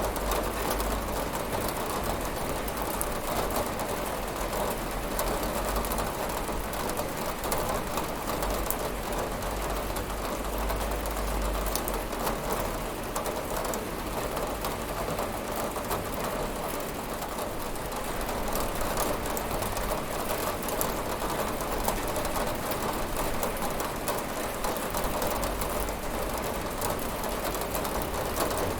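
Steady rain falling on a window: a dense, even hiss of drops with fine scattered ticks and a low rumble underneath.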